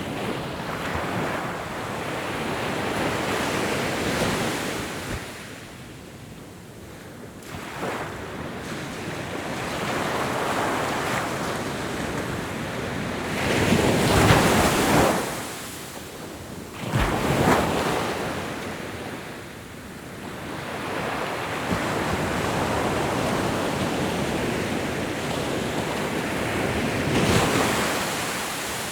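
Ocean waves breaking and washing up the shore in slow swells that rise and fall every few seconds. The two loudest crashes come about halfway through, close together.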